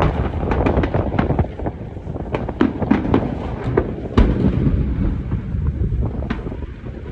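Fireworks display: a quick run of sharp bangs for the first second and a half, then scattered bursts with a big bang about four seconds in, over a continuous low rumble of explosions.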